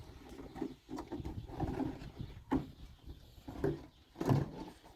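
Animal sounds in short, irregular bursts, with a few sharp knocks, the loudest about two and a half and four seconds in.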